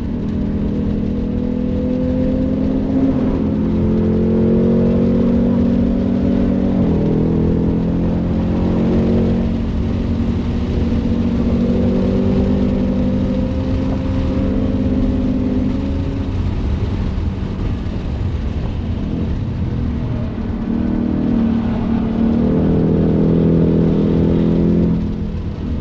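Ford Mustang Mach 1's engine under hard driving, its pitch climbing under acceleration and falling back several times, with clear drops about seven seconds in and near the end, over a steady low road and wind rumble.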